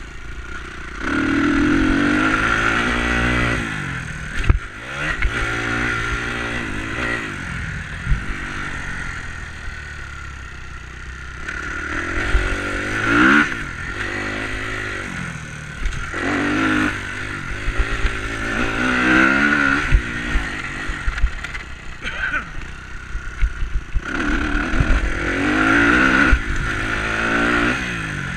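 Enduro motorcycle engine revving up and easing off again and again, in bursts of a few seconds, with scattered knocks and clatter.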